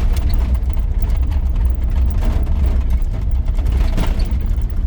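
Interior sound of a 1983 GMC C2500 pickup with a 350 V8, running steadily while driving: a low engine rumble under road noise, with a couple of faint knocks about two and four seconds in.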